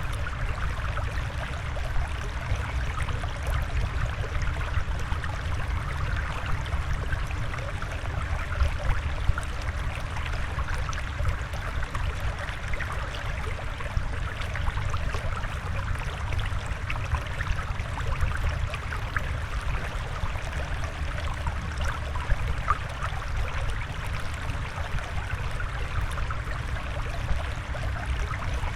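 Steady sound of flowing water, even throughout.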